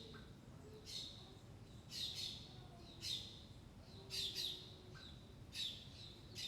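A bird chirping repeatedly, short high calls about once a second.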